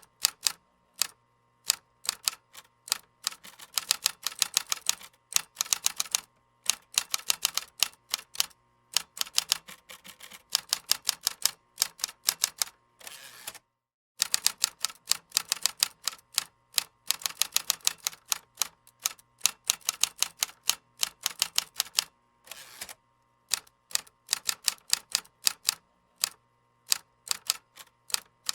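Computer keyboard being typed on: quick runs of key clicks in irregular bursts, with short pauses between them.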